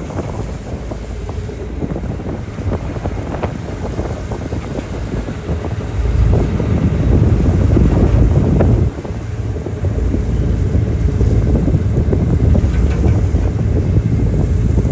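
Wind buffeting the phone's microphone aboard a car ferry in rough sea, a gusty low rumble over the rush of water, loudest for a few seconds in the middle.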